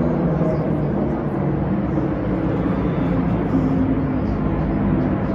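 Steady engine drone of race cars running out on the circuit, with a constant low rumble and no break.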